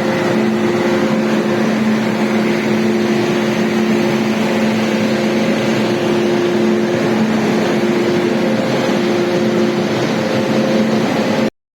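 Train running at speed: a loud, steady rush of wheel and wind noise with a steady droning hum of several tones through it.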